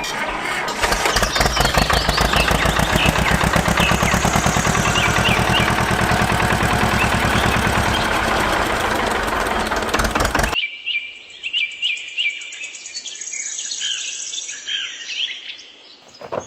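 A small engine running with a fast, even beat, with birds chirping over it. About ten seconds in it cuts off abruptly, and only the birds chirping remain.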